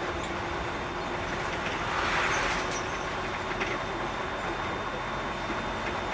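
Container truck driving, heard from the cab: a steady engine and road rumble, with a brief hiss about two seconds in.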